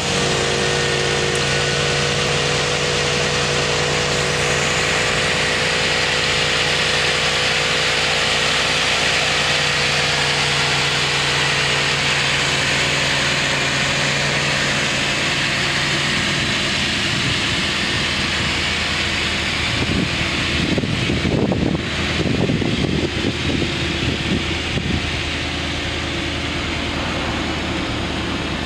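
1987 Chevrolet Camaro's engine idling steadily, just after being started. A few seconds of uneven, louder noise come in about twenty seconds in.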